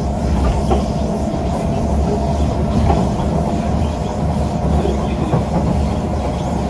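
Kawasaki C151 metro train running at steady speed on elevated track, heard from inside the car: a continuous low rumble of wheels on rail with a faint steady hum and a few light clicks.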